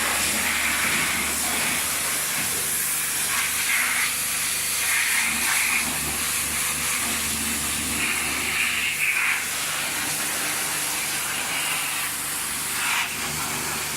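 Pressure washer spraying foam wash onto a motorcycle: a steady hiss of spray over a low motor hum, the hiss growing sharper for short stretches several times.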